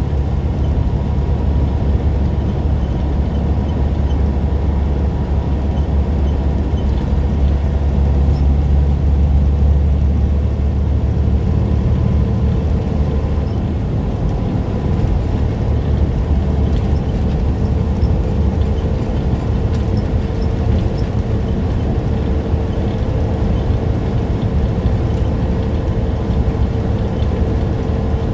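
Semi-truck engine and road noise while driving, a steady low drone; about twelve seconds in the low engine note shifts and thins out, as with a change in engine speed.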